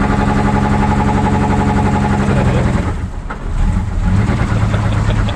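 A Plymouth Volare's slant-six engine held at steady high revs for a burnout attempt; about three seconds in the revs drop suddenly and the engine bogs, then runs on unevenly at lower speed.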